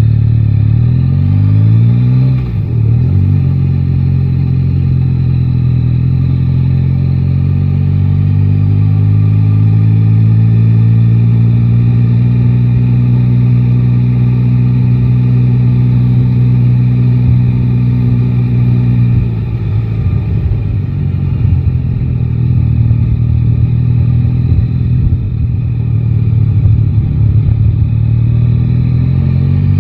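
Yamaha Tracer 9 GT's three-cylinder engine heard from the rider's seat, revs rising and falling through gear changes in the first few seconds, then holding steady while cruising. About twenty seconds in it eases off to a lower, rougher running note, and it picks up again near the end.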